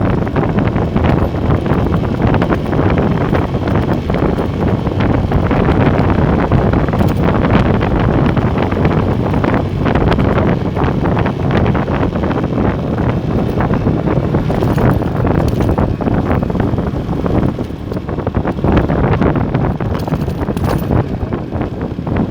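Loud, steady wind buffeting on the microphone of a moving motorcycle, a Motorstar Star X 125, over the bike's running and road noise.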